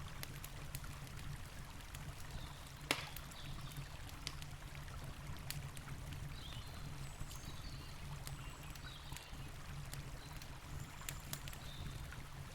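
Campfire crackling with scattered sharp pops, one louder pop about three seconds in, over the steady rush of a river.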